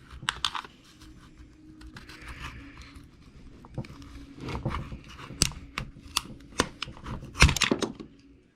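Small screws being taken out of an E-Revo 2.0 RC truck by hand, with scattered clicks and light knocks of the driver and small parts, the sharpest about five and seven and a half seconds in.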